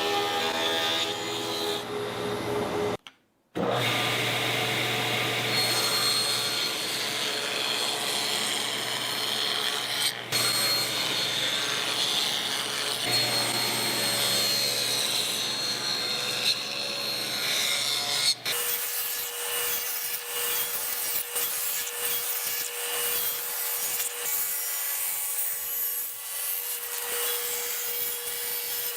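Shop power tools cutting wood, in several edited segments with abrupt changes, including a brief dropout about three seconds in. In the last third, a steady motor tone runs under a rasping cut.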